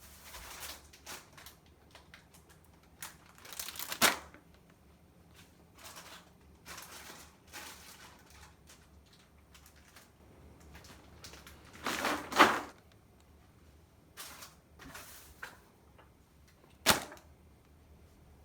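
Scattered clicks, knocks and rustles of objects being handled, with sharper knocks about four seconds in, around twelve seconds and near seventeen seconds.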